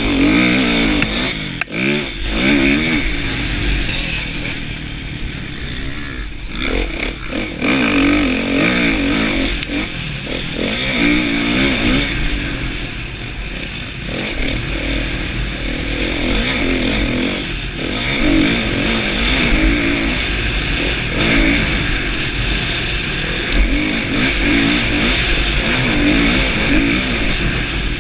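2016 Kawasaki KX450F's single-cylinder four-stroke engine revving up and dropping back over and over as the motocross bike is ridden hard, with wind rumble on the camera microphone.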